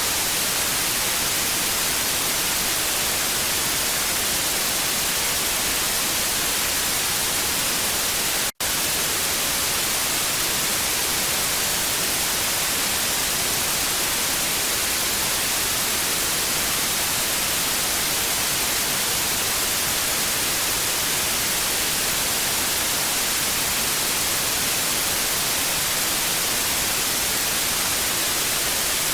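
Television static: a steady, bright hiss with no tone or rhythm in it. It cuts out to silence for a split second about eight and a half seconds in, then resumes unchanged.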